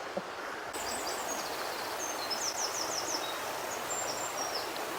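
A swollen river rushing steadily, high and full after a night of heavy rain, with a small songbird chirping in short, high runs of quick falling notes from about a second in.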